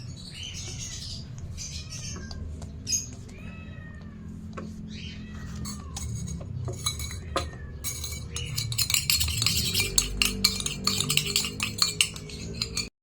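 Green-cheeked conure chick making short falling chirps during syringe hand-feeding. About two-thirds of the way in, a dense run of rapid clicks and clinks starts, and the sound cuts off suddenly near the end.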